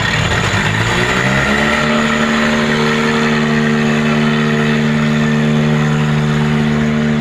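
Tractor diesel engine revving up over the first couple of seconds, then held at steady high revs.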